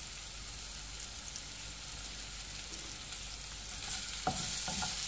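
Sliced onions and garlic sizzling in hot oil in a frying pan while a wooden spatula stirs them. The sizzle grows louder near the end, with a few knocks of the spatula against the pan.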